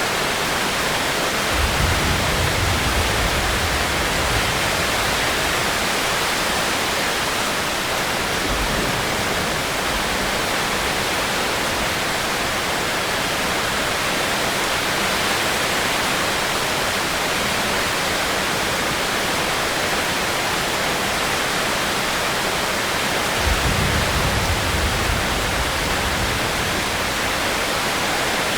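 Steady heavy rain, an even hiss. Two brief low rumbles break through, one about two seconds in and another near the end.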